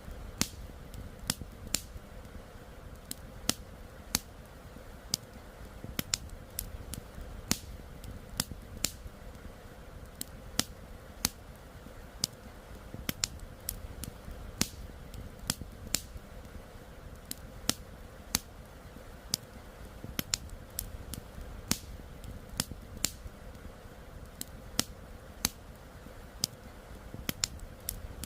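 Campfire crackling: irregular sharp pops and snaps of burning wood, several a second, a few louder than the rest, over a steady low rush from the flowing river.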